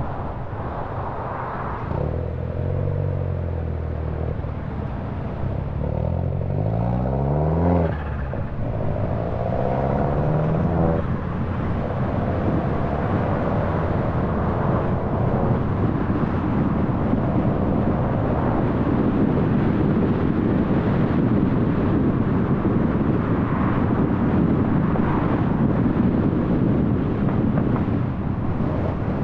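A car accelerating: its engine note rises for several seconds, breaks off at a gear change about eight seconds in, then climbs again briefly. After that, steady tyre and road noise from cruising grows louder.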